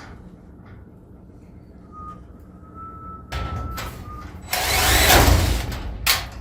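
Power drill driving a screw through aluminum angle into a metal garage door panel: a short burst, then a longer, louder run from about four and a half seconds in, ending with a sharp click.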